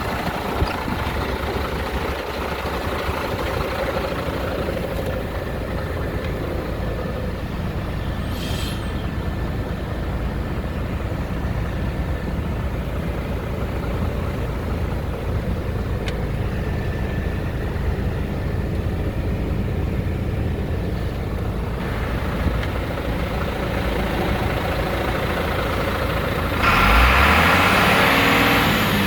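Iveco Stralis AT440S45T truck's six-cylinder diesel engine idling steadily, with a brief hiss about eight seconds in. Near the end the engine revs up and gets louder, rising in pitch.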